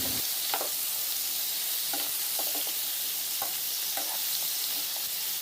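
Onions, tomato and ginger-garlic paste sizzling in hot oil in a pan, with a spatula stirring and now and then clicking against the pan.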